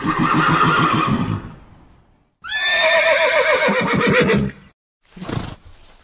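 Horse neighing twice: a long, quavering whinny, then a second that starts high and slides down in pitch with a shake. A short noisy burst follows near the end.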